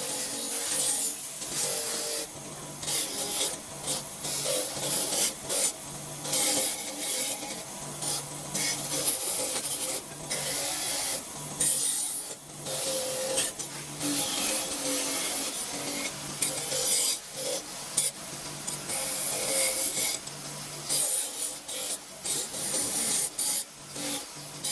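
Repeated abrasive scraping strokes of hand filing on an engine part, coming in an irregular run, often more than once a second.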